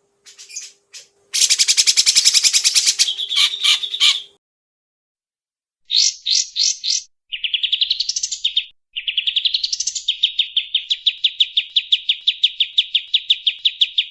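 Songbird singing: a harsh, rasping rapid burst of notes, then after a short pause quick rising notes and a long, fast, even trill.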